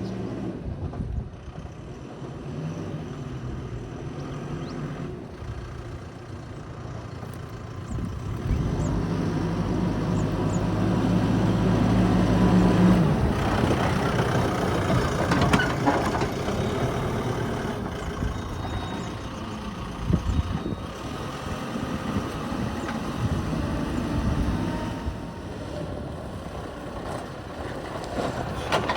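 Diesel engine of a Mahindra backhoe loader running under work, its note steady and loudest for a few seconds in the middle, then broken up by knocks and scraping from the machine at work.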